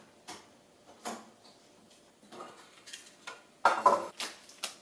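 Kitchen dishes and utensils clinking and knocking: a few scattered light clicks, then a louder run of clatter near the end.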